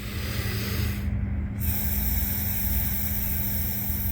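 Deep breaths drawn through a plastic straw, heard as an airy hiss: one short breath, a brief pause about a second in, then one longer breath.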